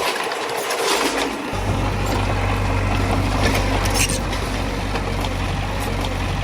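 Diesel engine of heavy earthmoving machinery running steadily, its low rumble growing fuller about a second and a half in, with a few sharp clanks about one and four seconds in.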